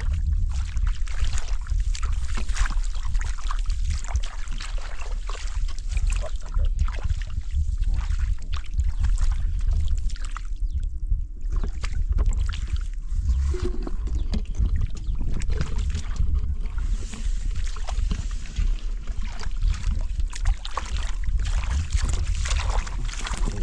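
Water splashing and sloshing in quick, irregular strokes, over a steady low rumble.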